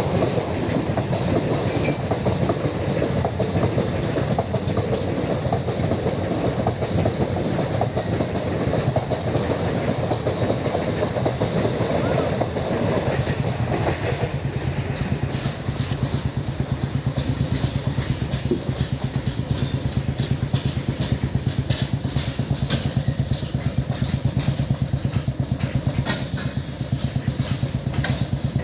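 Diesel-hauled express train passing at speed, its coaches rattling rhythmically over the rail joints. A thin high wheel squeal rises around the middle.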